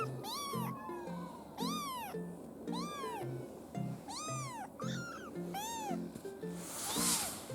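A 24-day-old kitten meowing repeatedly, about six short calls each rising then falling in pitch, roughly one a second.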